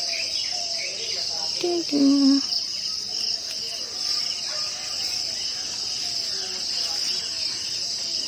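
Steady, high-pitched chorus of insects, crickets or cicadas, shrilling without a break. A brief low tonal sound, perhaps a voice, cuts in about two seconds in.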